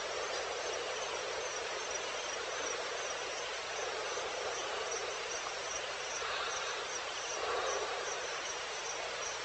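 Outdoor night ambience of insects chirping in an evenly repeating high-pitched pattern over a steady wash of background hiss, with a brief louder swell about three-quarters of the way through.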